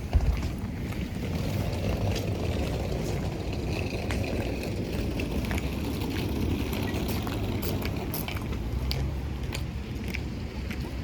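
Steady low rumble of a vehicle in motion, with a thump just after the start and scattered light clicks.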